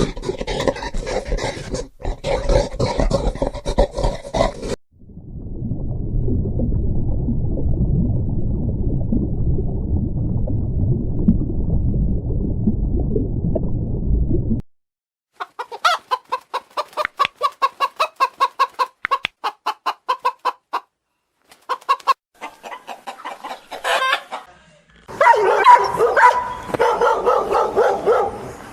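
A sequence of animal sounds: a rapid pulsing call for the first few seconds, then a low rumbling growl for about ten seconds, then chickens clucking in quick runs, loudest near the end.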